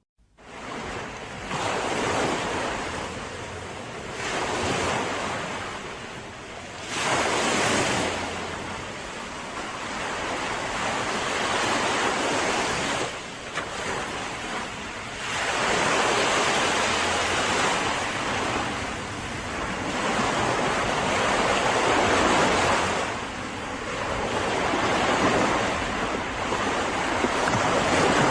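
Mediterranean sea waves breaking and washing up on a beach, the surf swelling and falling away every few seconds.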